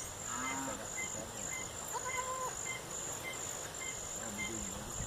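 Insects chirping in a steady, high-pitched rhythm, about two pulses a second.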